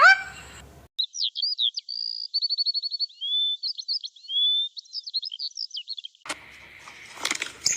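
A small bird singing a varied run of high chirps and whistles, with quick rising and falling notes and a fast, even trill of about ten notes a second. Near the end the song gives way to a noisy passage with clicks.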